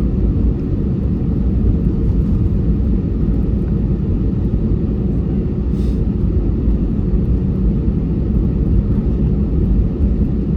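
Airbus A320's jet engines at low ground thrust heard from inside the passenger cabin: a steady low rumble with a softer hiss above it.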